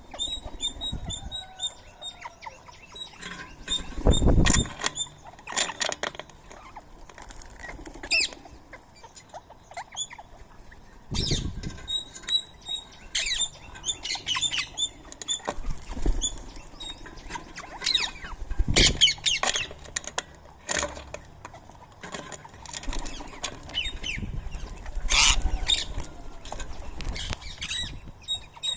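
Indian ringneck parakeets flapping their wings in loud bursts several times as they fly in and out at a feeding spot, among scattered short chirps and squawks.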